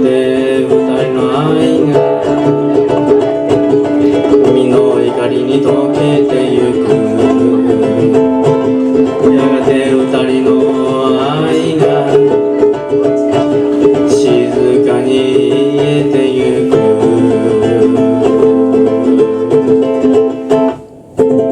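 Instrumental passage of a slow ballad led by strummed ukulele over steady held chords, with no singing. The music drops out briefly near the end.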